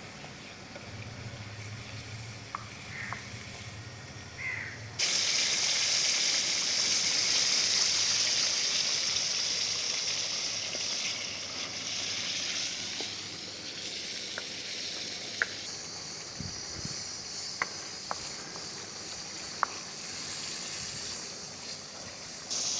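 Chicken pieces frying in hot oil in an iron karahi, a steady sizzle that gets louder about five seconds in, with a few sharp ticks in the second half.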